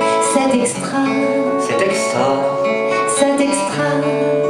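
Instrumental ending of a song: acoustic guitar strumming chords, settling on a held chord near the end.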